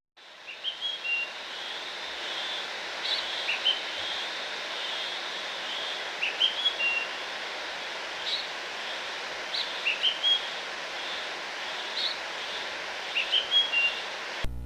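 A songbird singing short, high chirping phrases again and again, a few seconds apart, over a steady outdoor background hiss. It fades in at the start and cuts off suddenly near the end.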